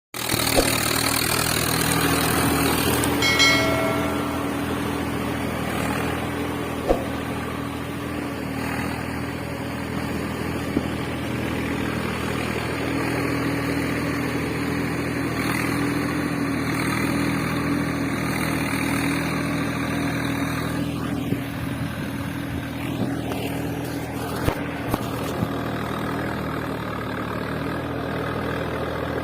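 Steady motor hum of a toy tractor running, with a short beeping tone about three seconds in and a few light clicks later on.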